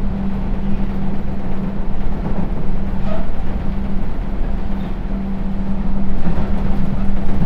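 Sotetsu New 7000 series electric train running at a steady speed, heard from inside the car: a continuous rumble of the wheels on the track with a steady low hum.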